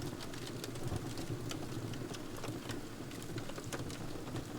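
Hairspray-soaked chicken burning, with a steady low rush of flame and scattered crackles and pops.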